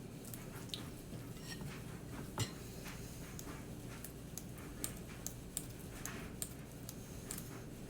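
Faint, scattered light clicks and taps from stuffing jumbo pasta shells with filling, with one louder tap about two and a half seconds in, over a low background hum.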